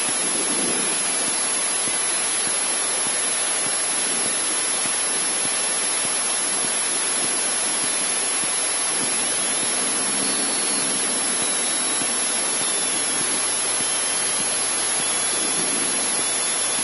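Steady, even hiss of cabin noise in a Cessna 152 taxiing with its engine running, with no distinct engine beat.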